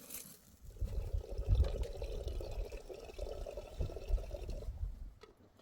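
Liquid pouring steadily for about four seconds, stopping about a second before the end.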